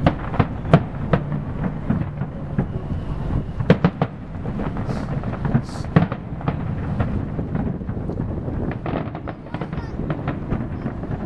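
Aerial fireworks shells bursting in an irregular run of sharp bangs. The loudest come about a second in, near four seconds and at six seconds.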